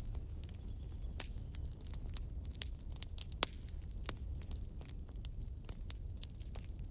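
Wood campfire crackling: irregular sharp pops and snaps over a low rumble of burning, with a faint high whistle for about a second and a half early in.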